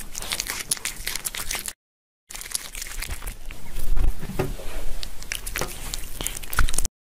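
Crinkling and rustling full of small clicks and crackles, like paper or plastic being handled, broken by a short silence about two seconds in.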